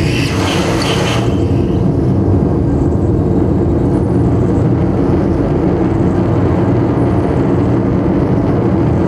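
Live noise music: a loud, dense, steady low rumble of processed noise, with a high wavering tone fading out in the first second or so.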